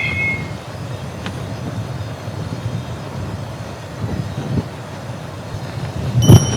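Strong blizzard wind, about 13 m/s, rumbling and buffeting in gusts. A sharp click with a brief ringing tone comes about six seconds in.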